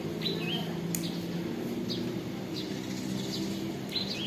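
A bird calling: a short, high whistled call that steps down in pitch, given once near the start and again near the end, with a few short chips between. A steady low hum runs underneath.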